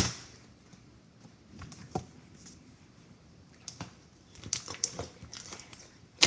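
Slime being handled: scattered small pops, clicks and crackles, with a sharp click at the start.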